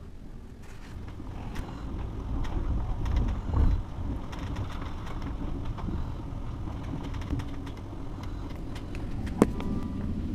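Passenger train running along the track: a steady low rumble with scattered clicks and rattles, and one sharp knock about nine seconds in.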